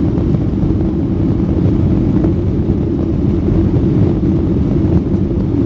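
Steady, loud rumble of an airliner's engines and airflow heard from inside the passenger cabin.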